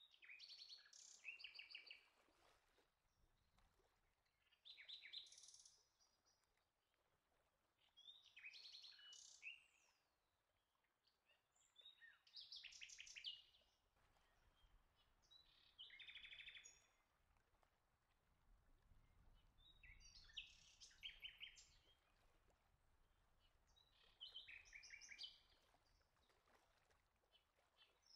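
Faint songbird song: short trilled, warbling phrases, one every three to four seconds.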